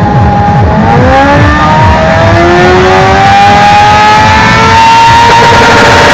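Motorcycle engine revving hard, its pitch climbing steadily for several seconds, then holding at high revs near the end. Very loud and close.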